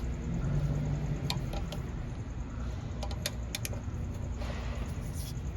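A few sharp metallic clicks and taps from a 14 mm wrench being worked on the engine oil drain plug, over a low steady hum.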